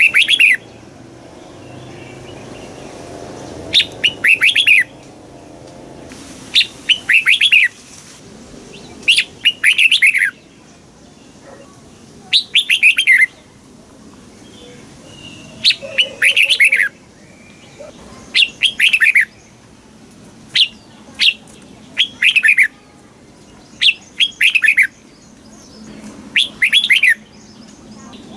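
Red-whiskered bulbul singing: short, quick phrases of whistled notes, each phrase about a second long, repeated every two to three seconds.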